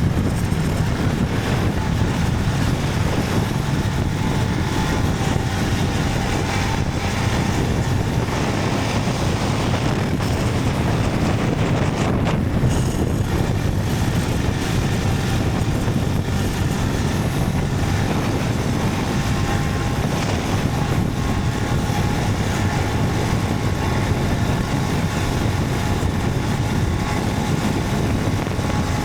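Motorcycle running at a steady cruising speed, its engine hum mixed with a constant rush of wind noise, with no break or sudden sound.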